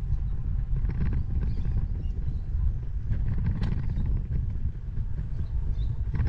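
Wind rumble on a bicycle-mounted camera's microphone and tyre noise from riding along a paved bike path, with scattered clicks and rattles from the bike.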